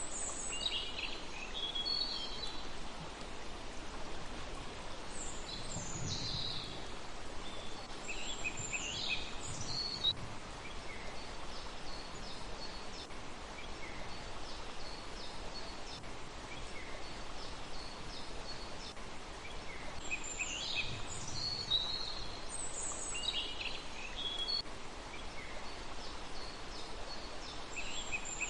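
Small birds giving short high chirps and twittering calls in several bursts, over a steady background hiss.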